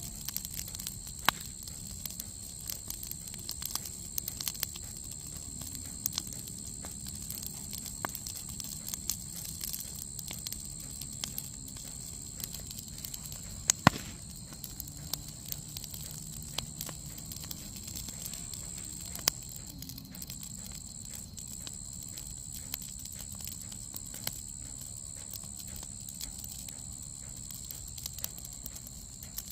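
Campfire crackling, with scattered sharp pops and one louder pop about a third of the way in. A steady high-pitched tone runs behind it.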